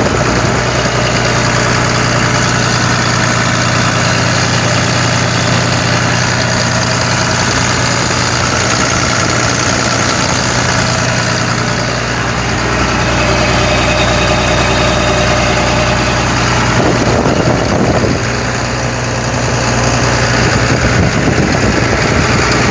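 John Deere 6076 7.6 L six-cylinder turbocharged diesel engine running steadily.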